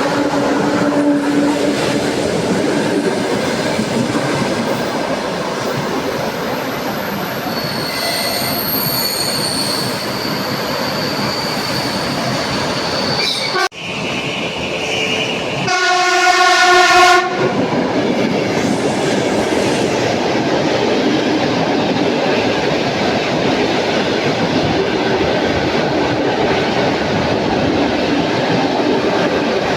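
A train running through the station with a continuous rumble of wheels on rail, and thin high squeals from the wheels in the first half. About three seconds after a sudden break in the sound, the train's horn gives a single blast of about a second, the loudest moment.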